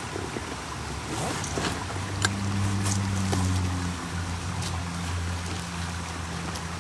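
Steady rush of flowing water with a few sharp clicks and rustles of a bag being closed. From about two seconds in a low steady hum joins it and holds to the end.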